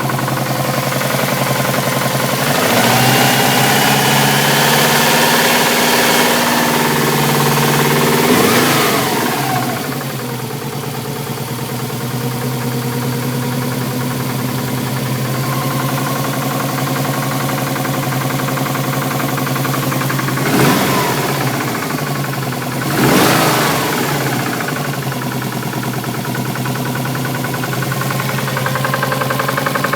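Subaru Impreza turbo's flat-four engine running with a knocking noise, which the owner tags as a big-end knock. The revs are raised a couple of seconds in and held for several seconds before dropping back to idle, then blipped twice later on.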